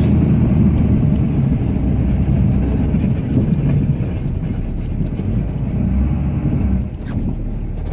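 Cummins inline-six turbodiesel of a Ram pickup running steadily under load, heard from inside the cab, with a snowplow blade scraping along pavement beneath the snow.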